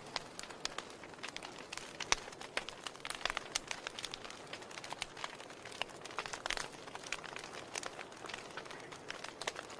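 Wood fire burning in a fireplace, crackling with frequent irregular sharp pops and snaps over a steady hiss; the loudest pop comes about two seconds in.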